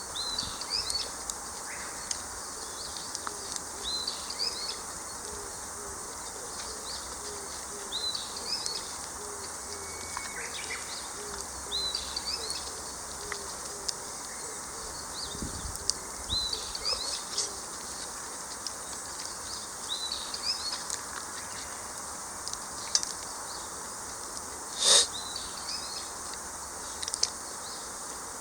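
Songbirds singing short repeated phrases every few seconds over a steady outdoor hiss. About 25 seconds in comes a single sharp crack, louder than anything else.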